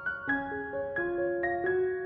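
Soft background piano music: a gentle melody of single sustained notes struck several times a second.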